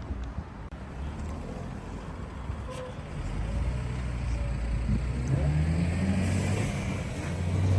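A road vehicle's engine running and speeding up: its low hum grows louder from a few seconds in, and its pitch rises near the end.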